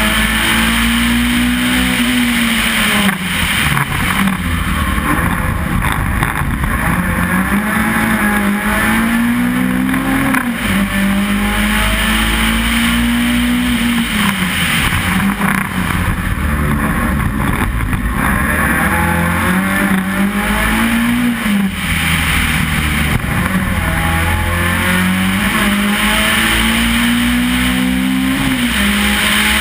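Race car engine heard from inside the cabin. Under acceleration, the engine note climbs over a couple of seconds and then drops away. This happens about four times, over steady road and wind noise.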